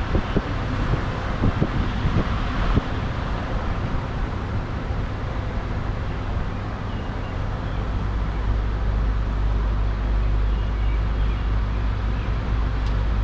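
Steady low rumble of vehicle road noise, with gusts of wind buffeting the microphone in the first few seconds.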